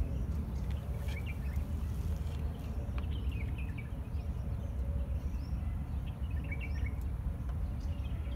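Birds chirping a few short times over a steady low rumble.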